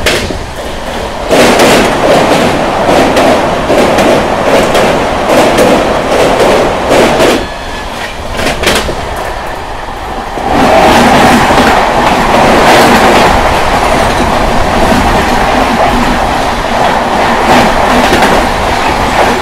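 Moving Indian Railways express train heard from its open coach doorway: wheels clattering over rail joints with a rush of wind. About ten seconds in, the sound grows louder and steadier as an oncoming express draws alongside and its coaches rush past on the next track.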